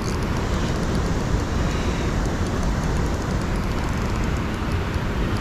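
Wind buffeting the microphone: a steady low rumble with gusty flutter and no break.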